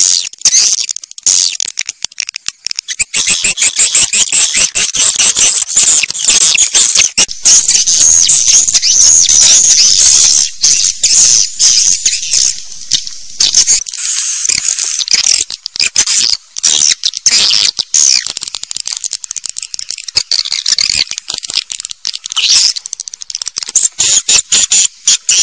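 Swiftlet calls: a loud, dense, rapid chattering of high chirps with a few short breaks. This is the recorded walet call sound played in swiftlet houses to draw the birds in to roost and nest.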